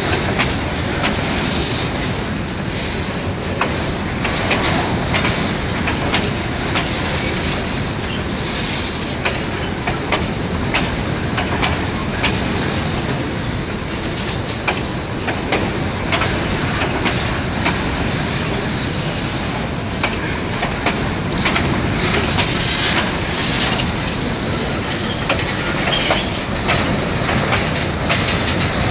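Freight train wagons rolling past close by: a steady rumble of steel wheels on the rails, broken by frequent irregular clicks and knocks as the wheels cross rail joints.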